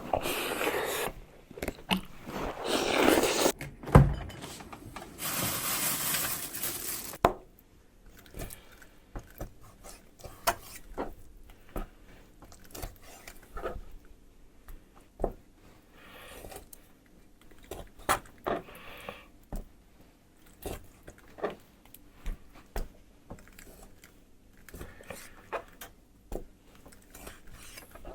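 Kitchen handling sounds: a steady rushing noise for the first several seconds with a sharp thump about four seconds in, then scattered light knocks, clicks and scrapes of utensils and dishes.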